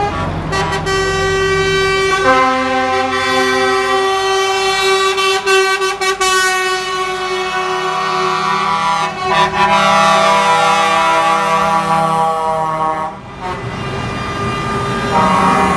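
Truck air horns blowing long, steady blasts, several tones sounding together as a chord that shifts as horns join in and drop out, with a brief break near the end.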